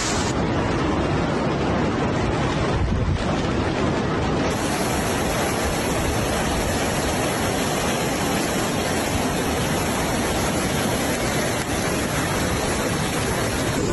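Floodwater rushing past in a loud, steady roar, with wind noise on the microphone.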